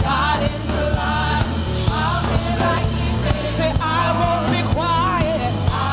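Live praise-and-worship music: a band with drums and bass playing a steady beat under singers holding wavering, sliding notes.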